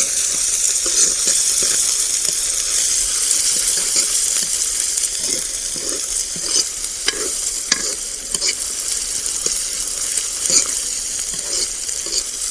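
Onions frying in hot oil in a kadai, a steady sizzle, with a spoon stirring and scraping against the pan in short irregular strokes. The onions are being browned until they change colour.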